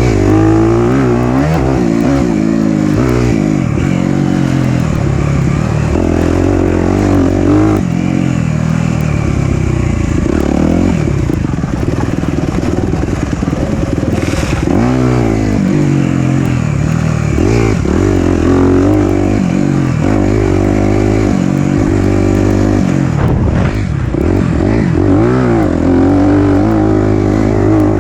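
Four-stroke dirt bike engine riding a trail, revving up and falling back again and again as the throttle opens and closes.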